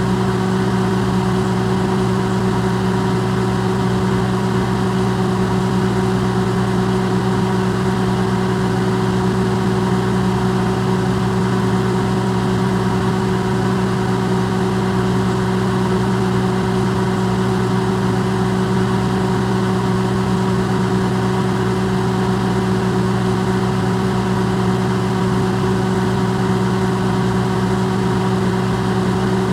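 Electrolux microwave oven running, amplified: a steady, even hum with several fixed tones over a low noise, unchanging throughout.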